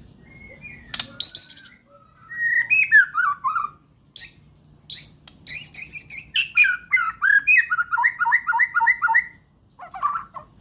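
Bornean white-rumped shama (murai batu) singing: a varied string of loud whistled phrases with sliding notes, ending in a fast run of repeated notes.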